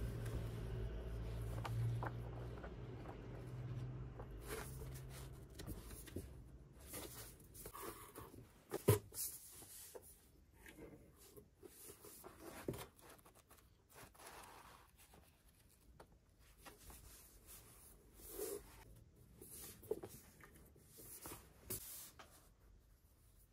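Quiet handling sounds of objects being moved about: scattered soft rustles and light taps and clicks, one sharper click about a third of the way in. A low hum fades out over the first few seconds.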